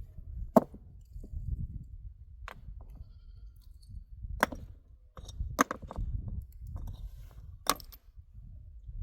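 Sharp knocks and clacks, about five spaced a second or two apart, over a low rumble.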